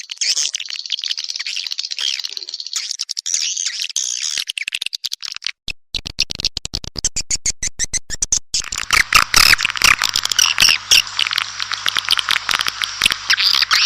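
Swiftlet lure calls: edible-nest swiftlets twittering in rapid, dense high chirps and clicks. About eight and a half seconds in the chirping grows denser and louder, over a faint steady low hum.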